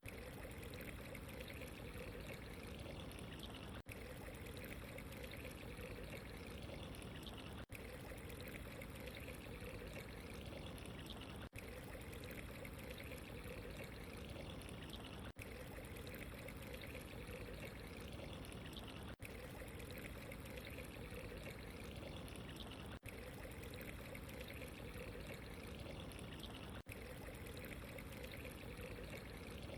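Steady running, trickling water, even and unbroken apart from a very short dip in loudness about every four seconds.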